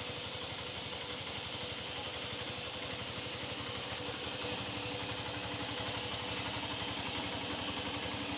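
Motorcycle engine idling steadily, its firing beating out an even, rapid pulse.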